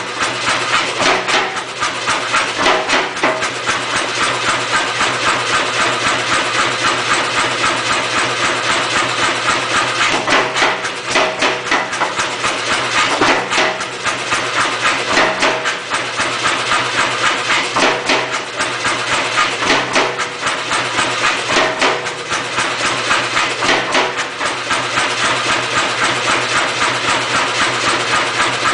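Say-Mak pneumatic power hammer striking a hot-punch into a thick steel billet in rapid, steady blows, some heavier than others, over the continuous hum of the hammer's motor.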